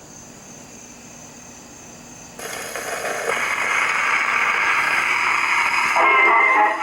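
Acoustic phonograph playing a worn shellac 78 rpm record through its exhibition reproducer and horn: the needle's surface hiss starts suddenly about two and a half seconds in as it runs into the lead-in groove, and the recorded music begins near the end.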